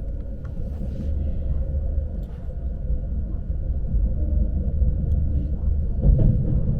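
Commuter train running, heard from inside the carriage: a steady low rumble with faint steady whining tones and occasional light clicks, growing louder about six seconds in.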